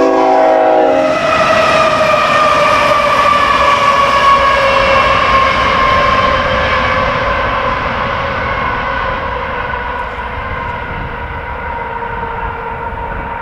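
Union Pacific locomotives running light sound a multi-note horn chord that cuts off about a second in, then pass with a steady rumble and a high whine that slowly falls in pitch as they move away.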